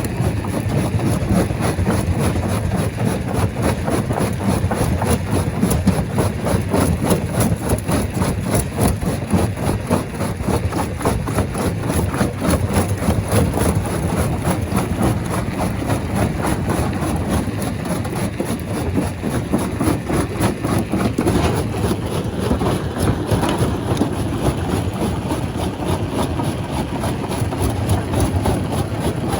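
Large rock crusher machine running: steady heavy machinery noise with a dense, rapid clatter.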